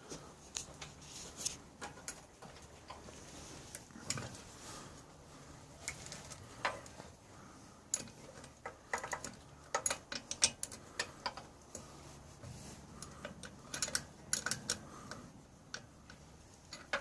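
Irregular light clicks and taps of hand tools and small metal parts being handled, with a few quick runs of clicking.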